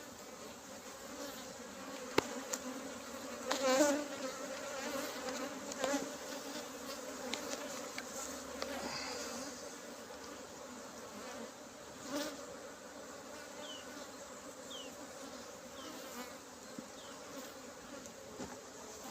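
Honeybee colony buzzing around an open brood box: a steady hum that swells briefly about four seconds in, with a sharp click at about two seconds and again near twelve seconds.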